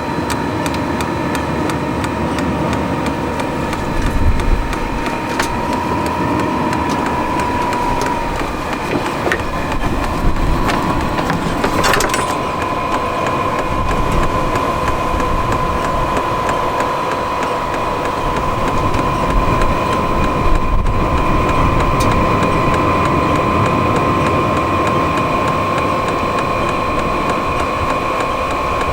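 A VEVOR 8 kW Chinese diesel air heater running just after it has self-primed and lit. Its blower gives a steady whine that slowly creeps up in pitch over a continuous rush of air and combustion.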